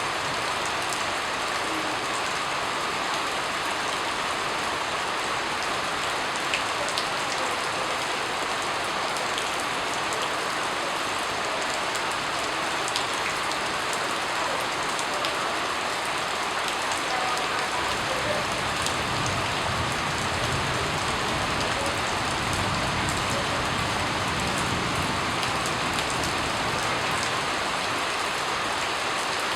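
Steady rain falling on a surface: a dense, even patter with scattered sharper drop ticks. A low rumble swells underneath about two-thirds of the way through.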